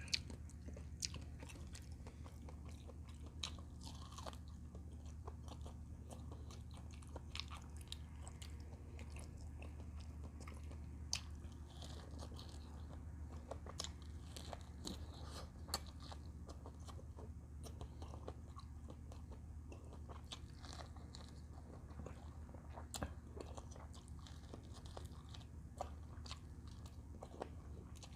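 Close-miked eating sounds of a person chewing camel bulalo meat and bone marrow: faint, scattered wet mouth clicks and chewing, over a steady low hum.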